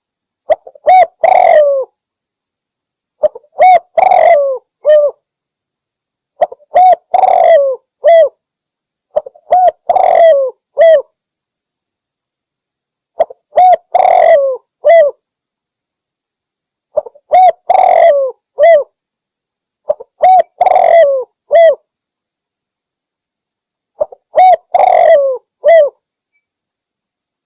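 Spotted dove (Javanese derkuku) cooing in repeated phrases, about one every three to four seconds. Each phrase is a short run of low coos opened by a brief grace note, with dead silence between phrases.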